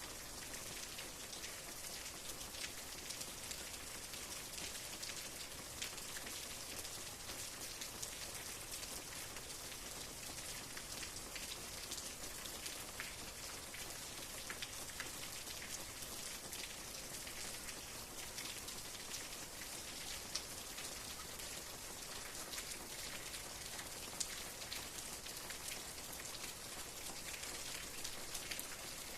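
Steady rain falling on a surface: a continuous patter of many drops, with an occasional louder single drip standing out.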